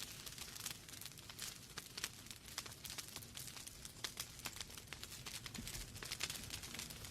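Wood fire burning in a fireplace, logs crackling with irregular sharp pops and snaps over a steady soft hiss.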